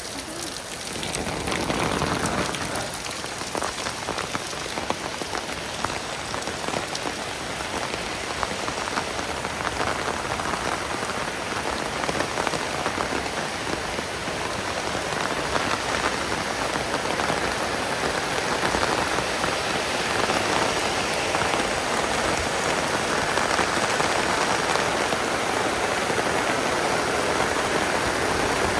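Heavy rain pouring down steadily, a dense hiss of countless drops pattering on surfaces.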